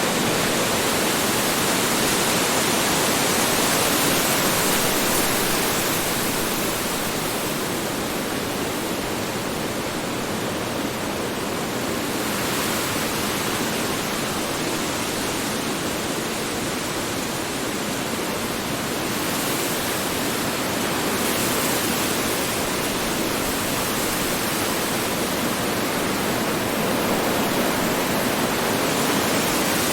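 Strong wind blowing steadily as a dense rushing noise, swelling and easing slowly in waves of several seconds, thinning in the upper range for a while around the middle.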